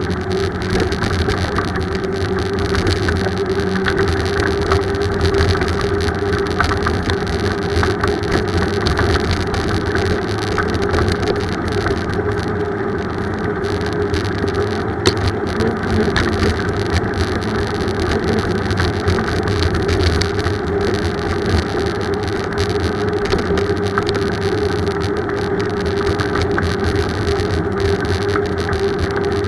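Steady rolling and wind noise of a bicycle ride, with a constant hum and one sharp click about halfway through.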